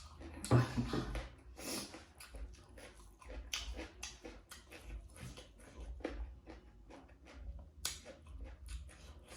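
Close-up mouth sounds of chewing pork and rice: irregular wet smacks and clicks, loudest about half a second in.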